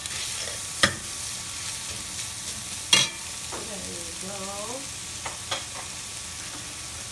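Shredded chicken and red onion sizzling in hot oil in a stainless steel pot while being stirred with a metal spoon. The spoon clinks sharply against the pot twice, about a second in and about three seconds in.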